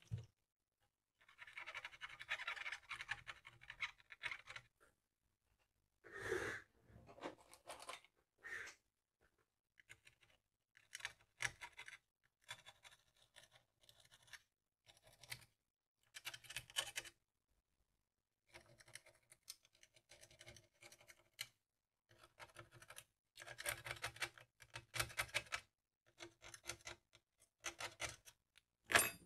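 Irregular scratching and clicking of hand tools working on a circuit board, in short bursts with pauses between them, as excess solder is cleared from the pads of a removed RF power transistor.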